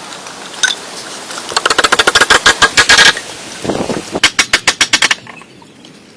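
Two runs of rapid, sharp knocks, about ten a second; the first lasts about a second and a half, and the second stops about five seconds in.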